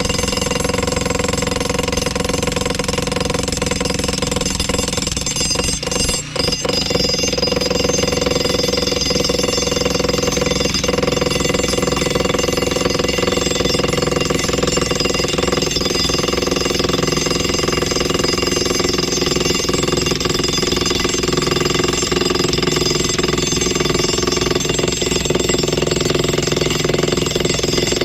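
Jackhammer hammering steadily into old concrete, chiselling a line down it to split the section off, with a brief break about six seconds in.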